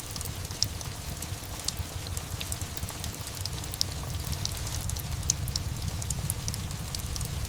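Steady rain with a low, even rumble underneath, dotted with scattered sharp pops and crackles from a fireplace.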